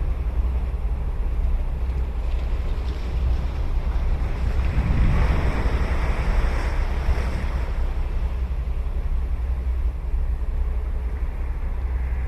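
Ocean surf washing onto a sandy beach, with one wave breaking and swelling about halfway through before it subsides. A steady low wind rumble sits on the microphone throughout.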